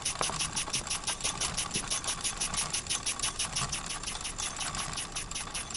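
Wilesco model steam engine running steadily, chuffing in a fast, even rhythm of short hissy steam puffs. Part of each puff is steam leaking from a hole in the steam chest left by a missing screw under the cylinder.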